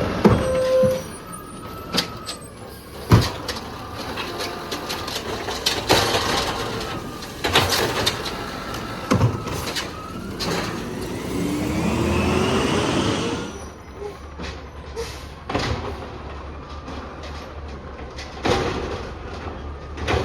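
Peterbilt 320 automated side-loading garbage truck working its arm and clamp: a series of clanks and knocks, with a rising whine of engine and hydraulics lasting a few seconds around the middle.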